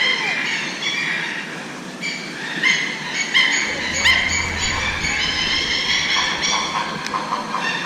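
Toucans calling: a dense run of short, shrill squawks from several birds, overlapping, many of the notes sliding upward. A low rumble joins about halfway through.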